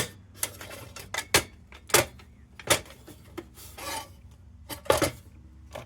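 Short metallic clinks and knocks, about eight or nine scattered through a few seconds, as a Dietz Top Lift tin lantern is handled and turned over on a bench.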